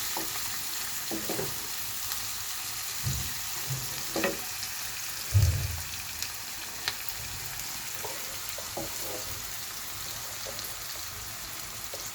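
Onion, green chili and tomato frying in oil in a pan: a steady sizzling hiss as the tomato cooks down. A few knocks of the stirring spoon against the pan, the loudest about five seconds in.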